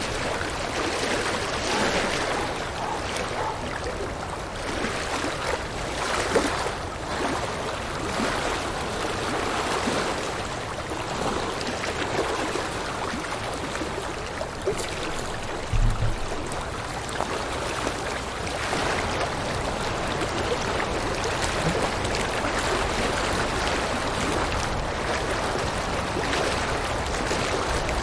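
River water flowing in a steady rush, with a brief low thump about halfway through.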